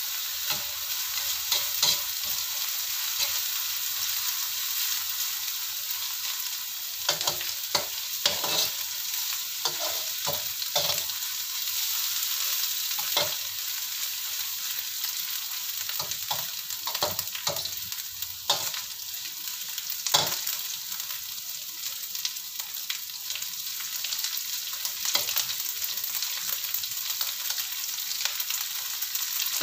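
Small dried anchovies (ikan teri) sizzling steadily in shallow oil in a wok as they fry toward golden brown, with a metal spatula scraping and knocking against the pan at irregular moments as they are stirred.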